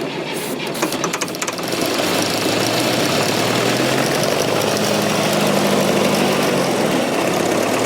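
Fordson Super Major backhoe's 3.6-litre diesel engine cranking and catching with uneven firing, then settling into steady running from about two seconds in.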